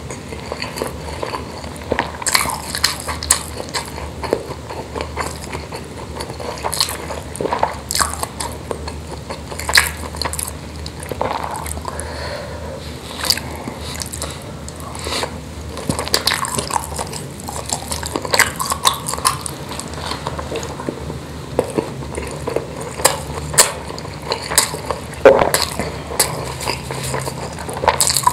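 Close-miked chewing and mouth sounds of a person eating spicy meatballs and rice by hand: irregular smacks and clicks as the food is bitten and chewed.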